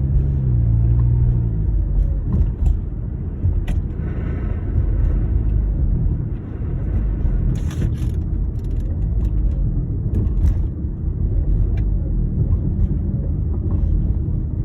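2009 Honda Accord engine running, its revs falling over the first second or two and then settling into a steady low rumble with scattered clicks. The car has an intake and exhaust leak.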